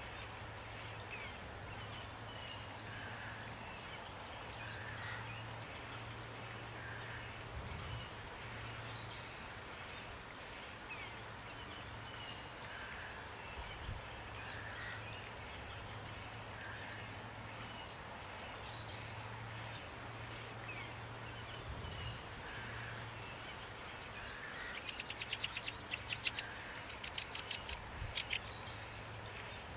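Steady rain hiss with small songbirds chirping over it in short, high, downward-sweeping notes, one after another. About 25 seconds in, a loud, fast rattling trill runs for about three seconds. A low steady hum sits beneath.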